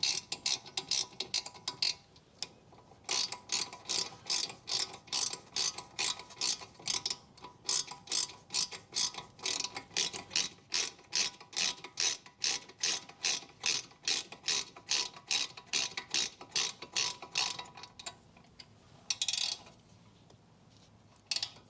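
A ratchet wrench being worked back and forth, giving a long, even run of sharp clicks at about two to three a second, with a short break about two seconds in. The clicking stops about three-quarters of the way through, followed by one brief scraping sound.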